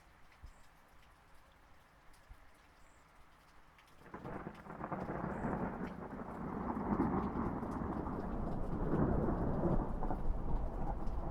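Light rain with scattered drips, then about four seconds in a long roll of thunder builds and keeps rumbling loudly to the end.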